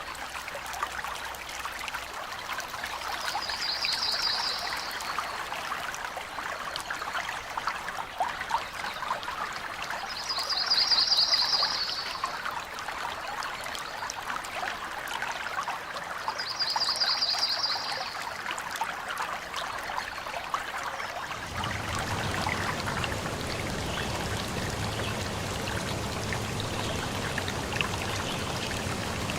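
Running water trickling and splashing, with a short, high, pulsing trill heard three times. About three quarters of the way through, the sound changes and a low steady hum comes in under the water.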